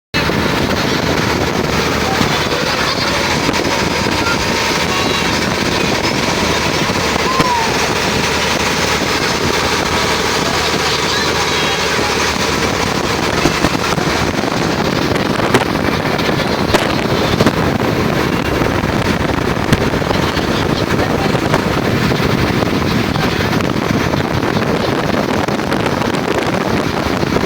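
Boat engine running steadily with wind buffeting the microphone, under a dense noise that never lets up.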